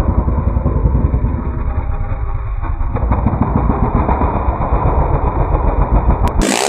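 Underbone motorcycle engine running loud with a rapid, throbbing exhaust note; the sound cuts off abruptly near the end.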